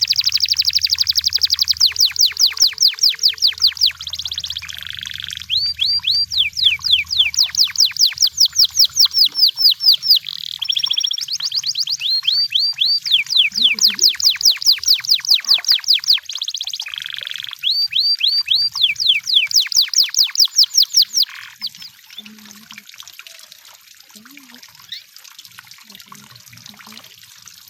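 A canary singing: long, fast trills of downward-sweeping notes, each phrase broken by a short buzzy note. The song stops about three-quarters of the way through.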